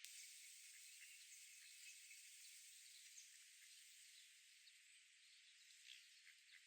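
Near silence: a faint, even outdoor hiss with scattered tiny ticks, and no clear bird or duck call.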